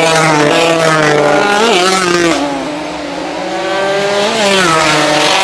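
Racing motorcycles' 200 cc engines running at high revs, the pitch dipping and climbing back twice as they shift and go past.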